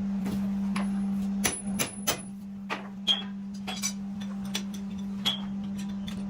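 Irregular sharp metallic knocks and clinks, about nine of them, several ringing briefly, over a steady low hum.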